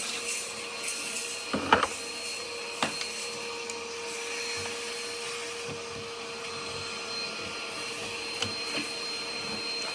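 Vacuum cleaner motor running steadily with a constant whirring hum, and a couple of short knocks in the first three seconds.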